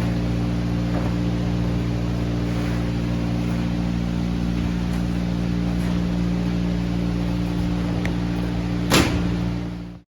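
Steady hum of running machinery, holding several steady low tones over a noisy rush. There is a sharp click about nine seconds in, and just after it the sound cuts off suddenly.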